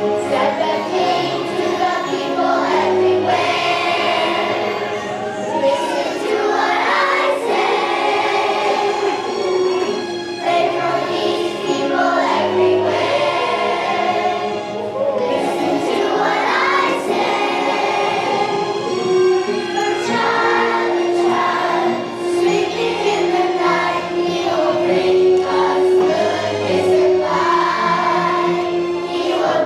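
Children's choir singing a holiday song together, with instrumental accompaniment and a bass line underneath.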